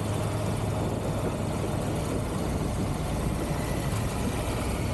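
Triumph Tiger 1200 GT Pro's three-cylinder engine running steadily as the motorcycle cruises, with a constant rush of wind and road noise over it.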